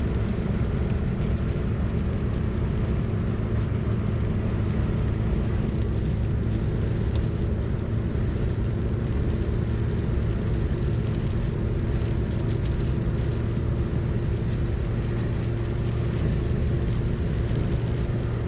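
Morris 1100 S driving at steady speed: engine and road noise with a constant low hum.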